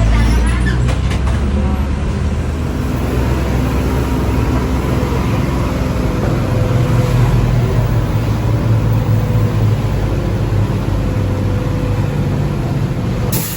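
Steady rumble of a moving vehicle heard from inside, with a faint steady whine above it. There is a brief sharp sound near the end.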